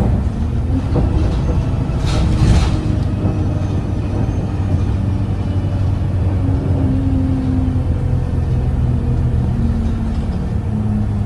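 Alexander Dennis Enviro 200 bus with a Cummins ISBe diesel and Voith automatic gearbox, heard from inside the cabin while under way: a steady low rumble with humming tones that shift in pitch. A short hiss of air comes about two seconds in.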